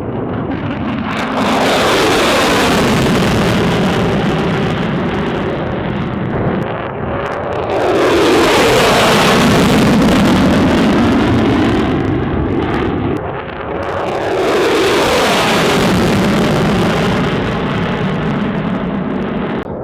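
Military jet aircraft passing low, one after another: three loud swells of jet engine noise, each rising and dying away as an aircraft goes by.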